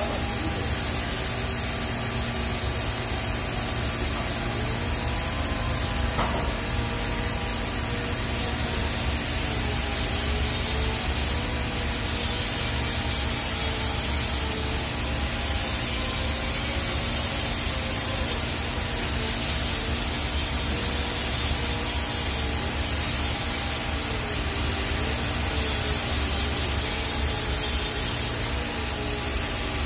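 TIG welding arc on stainless steel pipe, running as a steady hiss through a root pass.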